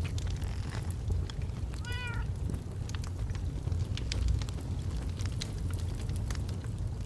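Wood fire crackling, with many sharp pops over a steady low rumble. About two seconds in comes one short pitched call that rises and then falls, like an animal's cry.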